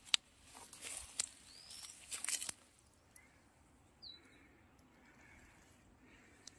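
Quiet outdoor ambience with a few brief, high bird chirps, one rising and one sharply falling, and a spell of clicks and rustling in the first couple of seconds.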